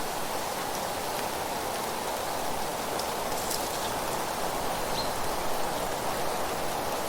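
Steady, even rushing noise of an outdoor nature ambience, with a few faint high ticks about three and a half and five seconds in.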